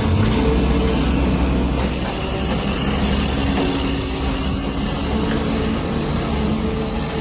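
Heavy vehicle engine running steadily, with a low rumble and a few held tones.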